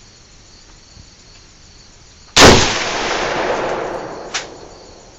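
A single shot from an Arsenal SGL 20 AK-pattern rifle in 7.62x39mm, about halfway in, followed by a long echoing tail that dies away over about two seconds. There is a short sharp click near the end.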